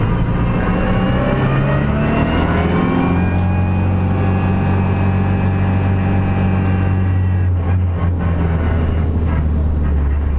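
Race car engine heard from inside the roll-caged cockpit, rising in pitch for about three seconds as it accelerates, then holding a steady note. Near the end the throttle eases off, with a few short clicks.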